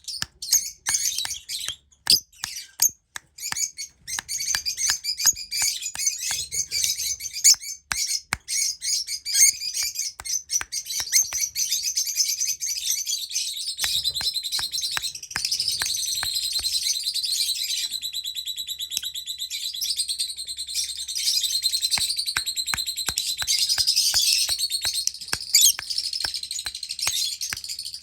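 Lovebirds chirping and chattering, shrill and rapid, with many sharp clicks mixed in; the chatter becomes denser and more continuous about halfway through.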